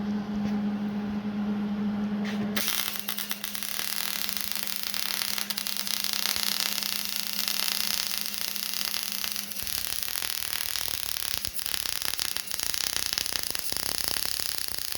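MIG welding arc crackling and sizzling steadily from about two and a half seconds in, as a bead is run. A steady hum underneath stops about ten seconds in.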